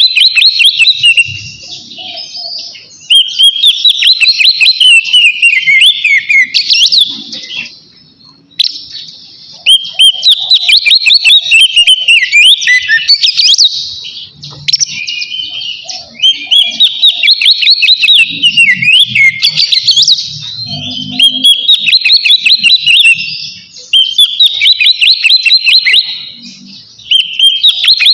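Oriental magpie-robin (kacer) singing loudly in full song, a run of rapid, varied whistled phrases a few seconds each with short breaks between. This is the bold song a male uses to call out rivals.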